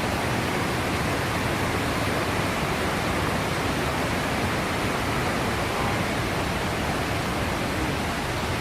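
Large waterfall falling hard: a steady, even rush of water with no breaks.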